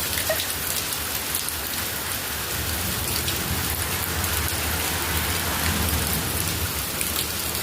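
Heavy rain pouring down steadily, drops pattering on surfaces, with a low rumble of wind on the microphone underneath.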